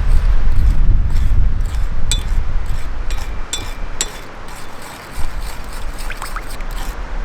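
Strong wind buffeting the microphone with a loud, rough low rumble that dies away near the end. Over it come a few light clinks with a short ring, about two to four seconds in.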